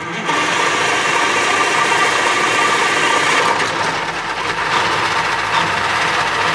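Cummins 903 V8 diesel in a Ford LNT 9000 truck running steadily under way, loud and constant, cutting in suddenly at the start.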